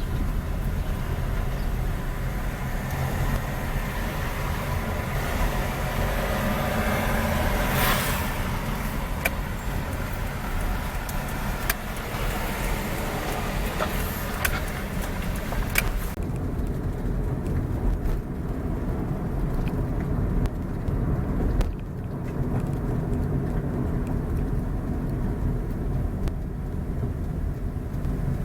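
Vehicle driving on a town road: a steady low rumble of engine and tyres. A brighter rushing sound swells to a peak about eight seconds in, and the high hiss drops away suddenly about halfway through, leaving the low rumble.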